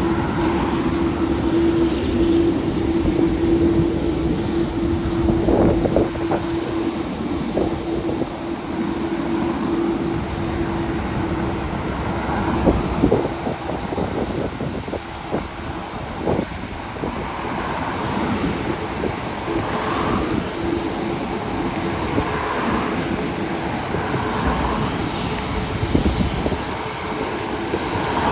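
Steady rumble of jet aircraft engines mixed with road traffic, with a constant hum that drops out about a third of the way in and comes back near the end.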